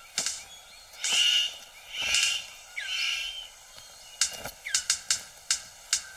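Male superb bird of paradise courting a female: three harsh rasping calls, then a run of sharp clicks at about two a second.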